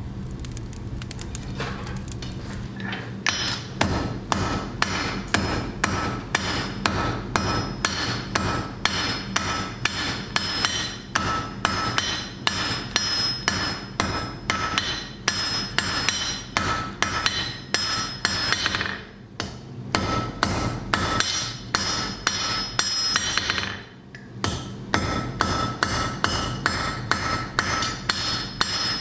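Blacksmith's hand hammer striking hot flat bar stock on an anvil in a steady rhythm of about two to three blows a second, each blow ringing. The hammering starts about three seconds in over a steady low hum and pauses briefly twice in the second half.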